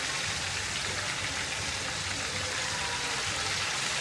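Chicken drumsticks frying in hot oil: a steady sizzle, with a low steady hum beneath it.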